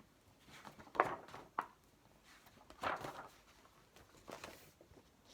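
Pages and cover of a picture book being handled and turned: a few short papery rustles and taps.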